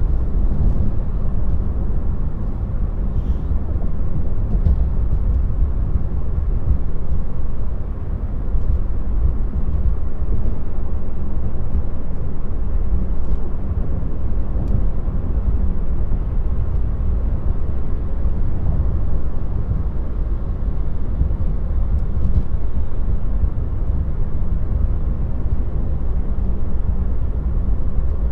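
Steady low road and tyre rumble heard inside the cabin of a moving Tesla electric car, with no engine sound, and a few faint ticks over it.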